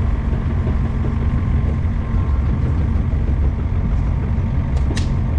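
Mini excavator engine running steadily, with a single sharp click or knock near the end.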